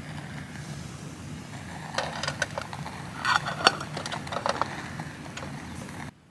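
A run of sharp clicks and knocks, as of small objects being handled, over a steady low rumble. The clicks start about two seconds in and stop about five seconds in, and everything cuts off just before the end.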